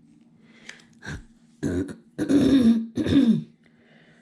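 A woman clearing her throat hard, about four rough bursts in the second half, congested from a sinus infection.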